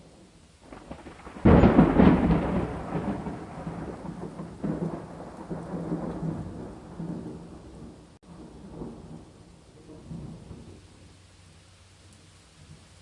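A thunderclap cracks about a second and a half in and rolls on in a long rumble with several further swells, fading out by about eleven seconds, over steady rain.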